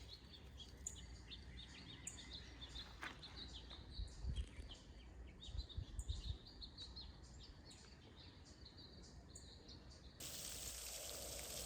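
Small birds chirping faintly, with many short, high chirps in quick succession and a few low thumps. About ten seconds in, the chirps give way suddenly to a steady hiss.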